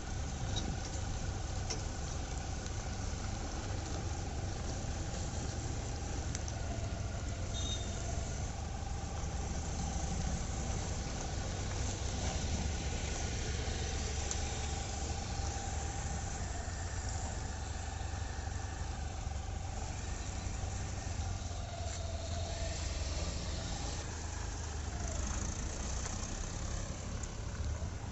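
Tractor's diesel engine running steadily at low revs, with a faint higher whine that wavers and dips slightly near the end.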